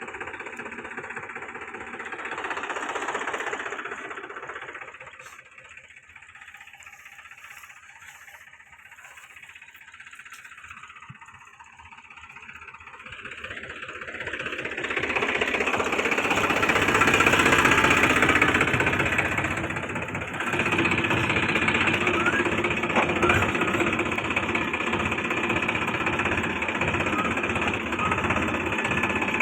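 Diesel tractor engine running with a steady knocking beat. It fades for several seconds, then grows louder again about halfway through and stays steady.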